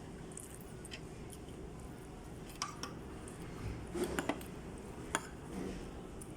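Eating utensils clicking and tapping against dishes a few times: two light clicks, then a cluster of taps about four seconds in and a single sharp click a second later.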